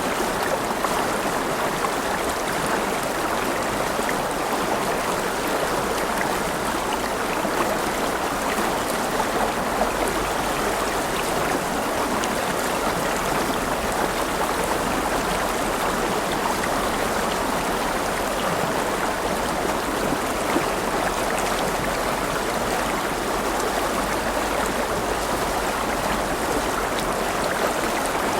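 River water flowing and babbling over stones: a steady, even rush with no breaks.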